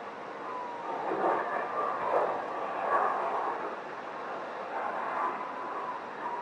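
Airliner landing on its belly without its landing gear, heard from a distance: a rushing noise of engines and the fuselage on the runway that swells about a second in and surges several times. A faint steady high tone runs underneath.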